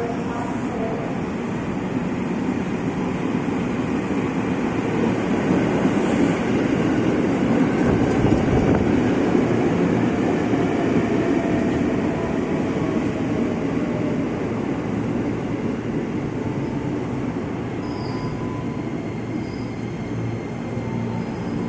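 A train passing on the tracks: a steady rush and rumble of wheels on rail that grows to its loudest about eight to ten seconds in, then eases off a little.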